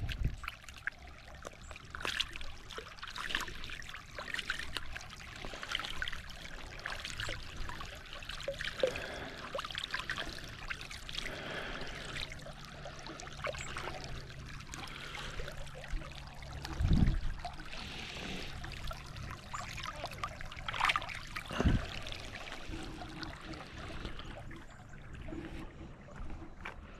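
Water trickling, with two dull thumps in the second half, about five seconds apart.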